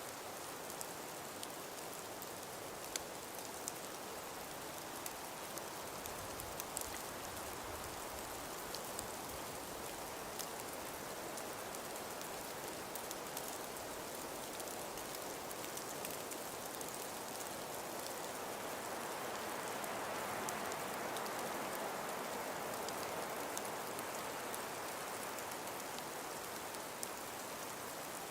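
Wind and falling snow: an even hiss scattered with faint ticks of flakes striking, swelling a little about two-thirds of the way through.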